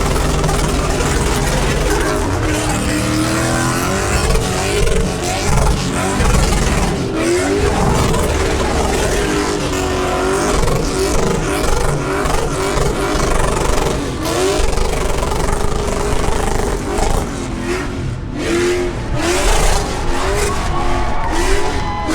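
V8 muscle car engine revving hard and repeatedly in a burnout pit, its pitch sweeping up and falling back again and again, over a constant rushing noise of spinning tyres.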